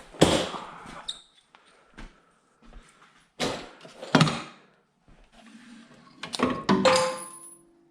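Metal parts being handled and set down: several separate clanks and knocks, the last cluster ringing briefly with a metallic tone.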